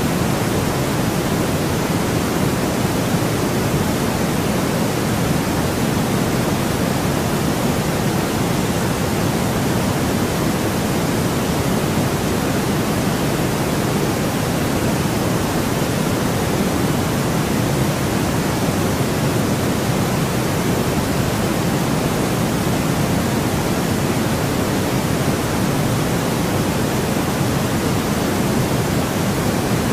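Steady sleep white noise: an even, unbroken rushing hiss, heavier in the lows than the highs, with no change throughout.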